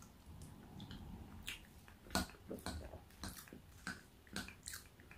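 Quiet, close-up chewing of a mouthful of mashed potato and gravy: soft wet mouth clicks and smacks, about ten in a loose string, most of them after about two seconds.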